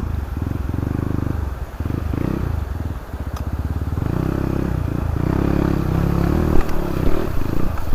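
Dirt bike engine labouring through a deep river crossing, its note dipping and picking up several times as the throttle is worked.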